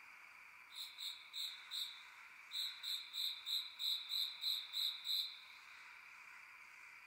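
Steady chirring of an insect chorus, with a high, short call repeated about three times a second: four notes about a second in, then a run of nine more.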